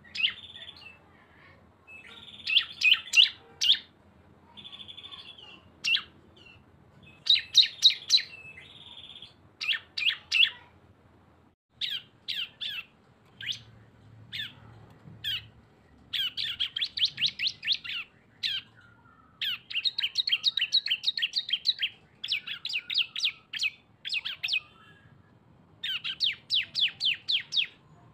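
Small prinia-type songbirds (ciblek/cisem) singing a rapid, chattering 'ngebren' song: fast runs of sharp, high chirps in bursts of a second or two, broken by short gaps and a few buzzy held notes.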